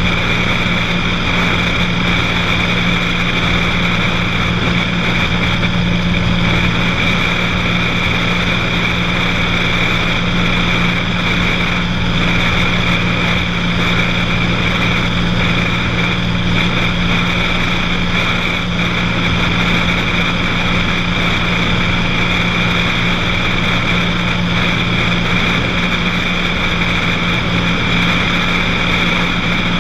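Cessna 182's single piston engine and propeller droning steadily in flight, with a constant low hum and a broad rushing noise over it.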